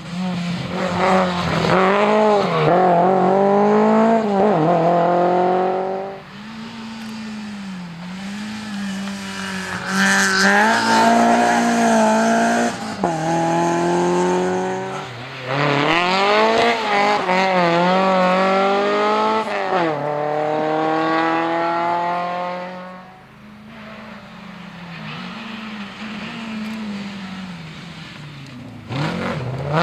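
Historic rally car engine revving hard through the gears, its note climbing in pitch again and again with a short drop at each gear change. It fades away after about two thirds of the way through.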